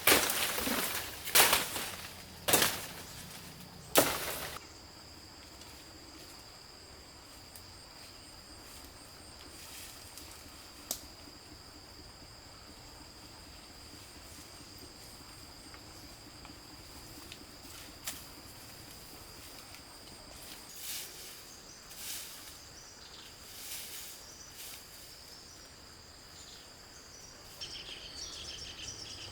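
A steady high insect buzz, with four loud knocks in the first few seconds, then faint scattered clicks and rustles.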